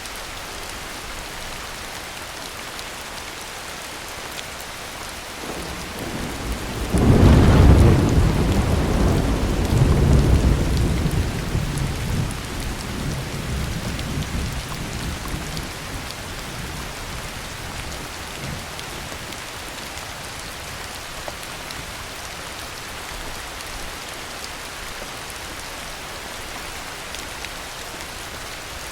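Steady heavy rain, with a single thunderclap about seven seconds in: a sharp crack that rolls into a low rumble and fades over about ten seconds.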